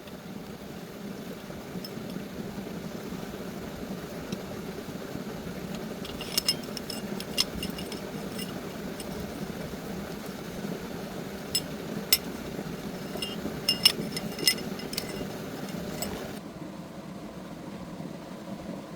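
Metal tools clinking against metal parts: a dozen or so sharp, ringing clinks in the middle stretch, over a steady low hum.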